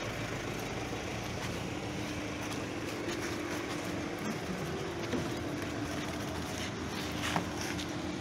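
Vehicle engine idling steadily, with a few faint clicks and knocks.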